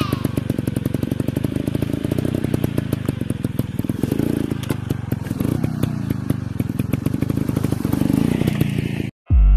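Dirt bike engine running at low revs with a steady, rapid chug, the revs lifting slightly a few times; it cuts off suddenly near the end.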